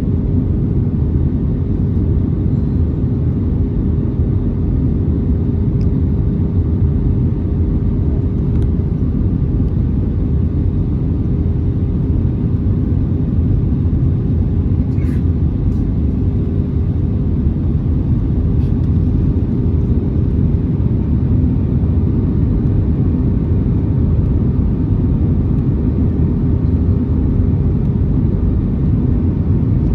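Steady cabin noise inside an Airbus A320neo on descent: a low rumble of airflow and engines with a steady hum running through it, and a faint click about fifteen seconds in.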